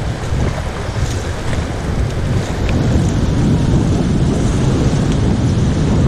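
Rushing whitewater of a river rapid, with wind buffeting the microphone, growing louder about halfway through as the raft runs into the rapid.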